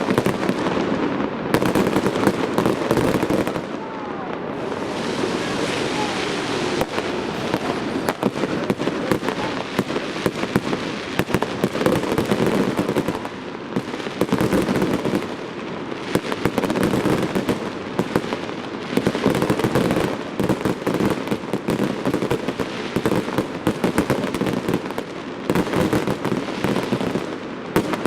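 Fireworks display going off continuously: dense, rapid bangs and crackling shells, overlapping throughout, with crowd murmur beneath.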